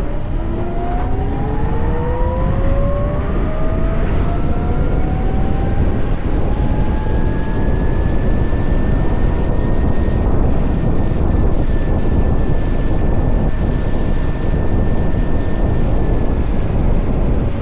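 VMoto Stash electric motorcycle's motor whine, rising in pitch as the bike accelerates over the first several seconds, then holding steady before fading near the end. A constant rush of wind and road noise runs underneath.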